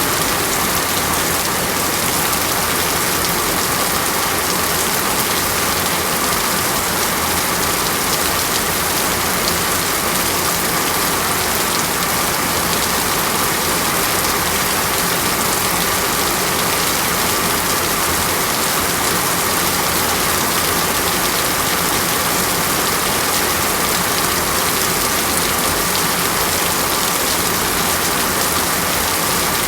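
Steady heavy rain in a tropical rainforest, an even, unbroken hiss of downpour with no let-up.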